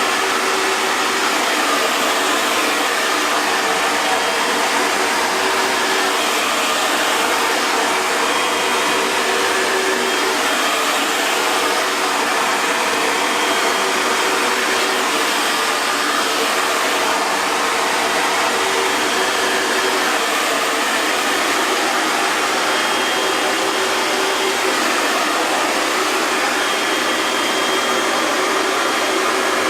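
Hair dryer running steadily: an even, unbroken rush of blown air with a faint steady hum underneath.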